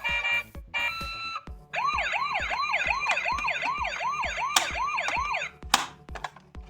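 Toy emergency vehicle's electronic siren: two short beeps, then a fast wail that rises and falls about three times a second for nearly four seconds and cuts off, followed by a click. Background music with a steady beat runs underneath.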